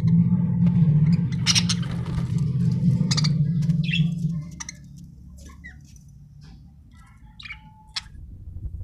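Budgerigar chicks chirping and squeaking in short high calls, over a low steady hum that fades out about four and a half seconds in.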